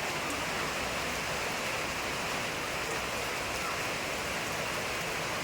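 Steady rain falling, an even, unbroken hiss of rain with no thunder.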